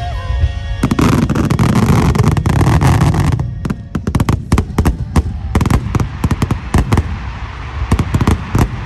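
Aerial fireworks exploding at a large display. For the first three seconds or so the blasts run together without a break; then comes a rapid string of sharp bangs and crackles.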